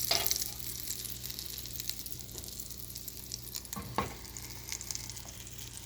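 Food sizzling and crackling steadily in a frying pan with butter, with a sharp knock at the start and another about four seconds in.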